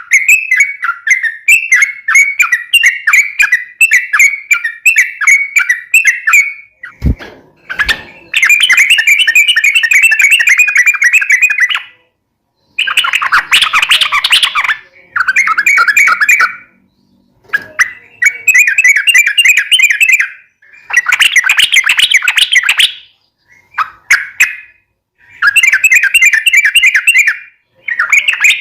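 Yellow-vented bulbul (trucukan) singing long, rapid chattering phrases in bursts of a few seconds with short pauses between them. Two sharp clicks come about seven to eight seconds in.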